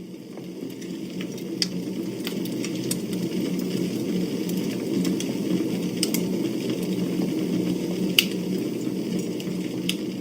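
Campfire burning: a steady low rushing hiss with scattered sharp crackles and pops from the burning wood, fading in at the start.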